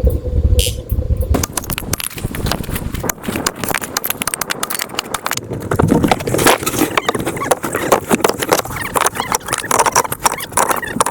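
Rapid, irregular knocks and clicks, beginning about a second in after a brief lull.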